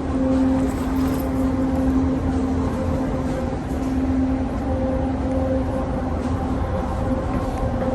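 Steady low engine drone with a humming tone that comes and goes over a deep rumble.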